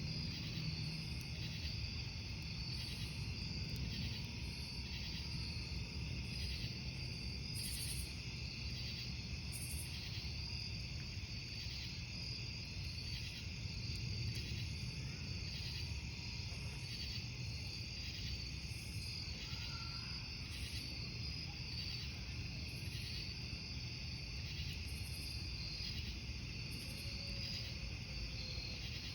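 Crickets chirping steadily in an even, pulsing rhythm over a low, steady rumble.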